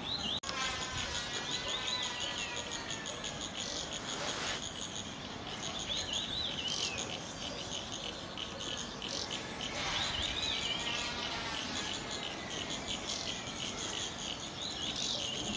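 Taiga flycatcher calling: short wavy high notes repeated every second or few seconds, over a steady high-pitched insect trill.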